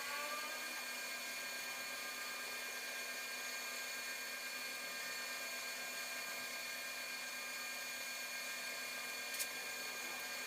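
A machine running steadily: an even hiss with several steady high-pitched whines, and a single click near the end.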